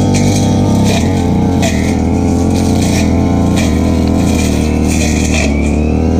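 Stihl FR3001 brush cutter's two-stroke engine running steadily at high speed, with a brief swish roughly every second as the blade sweeps through grass.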